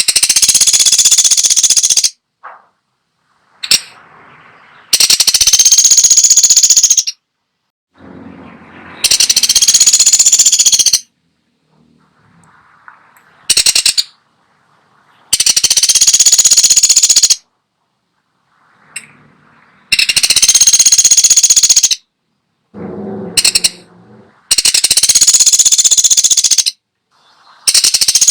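Pelatuk sampit woodpecker calling: a series of loud, rapid buzzing trills, each about two seconds long, repeated every three to four seconds, with one shorter trill in between.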